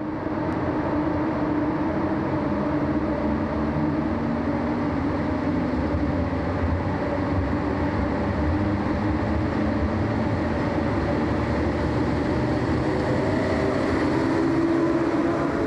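Electric locomotive hauling passenger coaches through a station, a steady hum and rail rumble that grows slightly louder near the end as it passes close.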